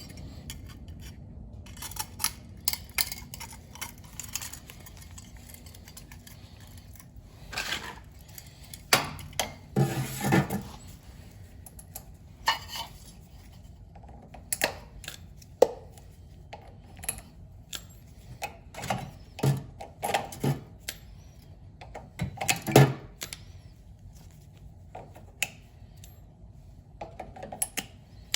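Irregular metallic clinks, clanks and rattles of tools and metal boiler parts being handled, with scattered sharp knocks, the loudest clusters about a third of the way in and again past the three-quarter mark.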